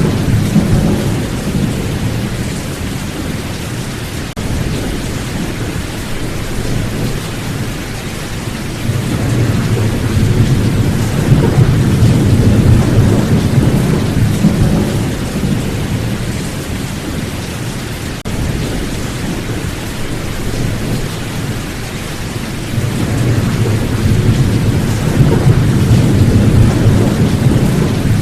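Steady rain falling, with low rolling thunder that swells and fades, loudest at the start, around ten to fifteen seconds in, and again near the end.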